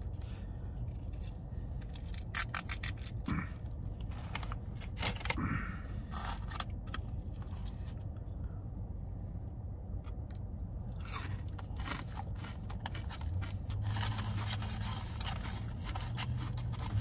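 Close-up eating sounds: biting and chewing breaded chicken nuggets, with many small clicks, crackles and the scrape of the paper nugget box and sauce cup being handled. A steady low hum runs underneath.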